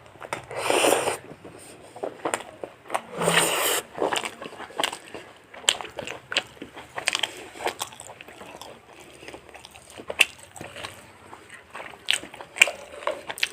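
Close-miked eating of fried chicken: two louder bites or tearing sounds in the first four seconds, then a steady run of small crunching and chewing clicks.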